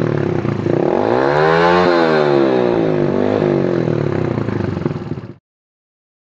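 Kawasaki Athlete 125 underbone motorcycle's single-cylinder engine through a custom exhaust, revved up smoothly once to a peak and back down, then blipped lightly and running steadily before it cuts off suddenly near the end.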